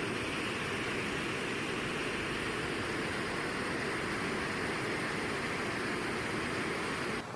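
Floodwater rushing past, a steady roar of water. It cuts off abruptly near the end, giving way to a quieter hiss.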